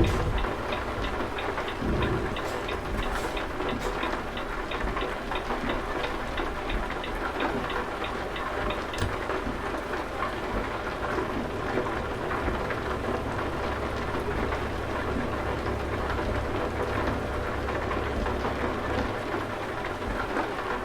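Steady rain, with the low hum of a truck engine underneath. A fast, regular light ticking runs through the first several seconds and then fades.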